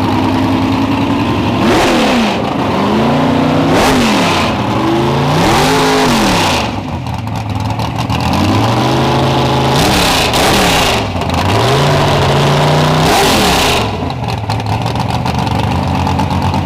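Race car engine revved hard over and over, the pitch climbing and falling about every two seconds with a rough idle in between.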